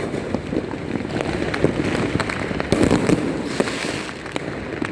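Many fireworks and firecrackers going off at once, a dense, unbroken crackle of pops and bangs.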